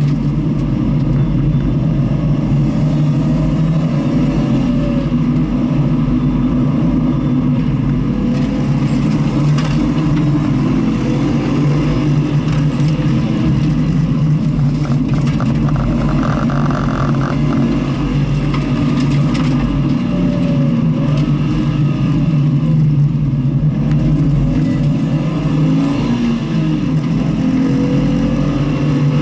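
Car engine running continuously under load on a circuit, the pitch shifting gently up and down with the revs.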